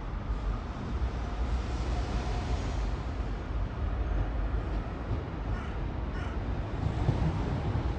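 Steady low rumble of a railway station with two short bird calls, one about five and a half seconds in and the next soon after.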